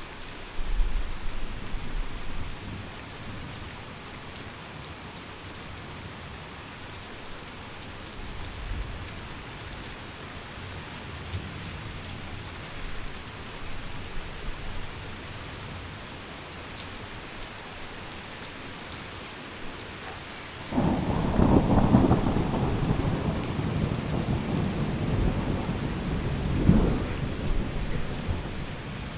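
Heavy rain falling steadily in a thunderstorm. A low thunder rumble comes just after the start, and about 21 seconds in thunder breaks suddenly and loudly, rolling on with swells to the end.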